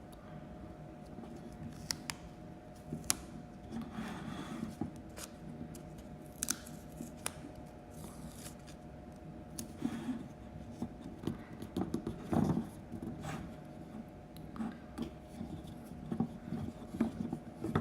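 Small clicks, rustles and scrapes of hands handling the parts of a wooden toy truck kit, with a faint steady hum underneath.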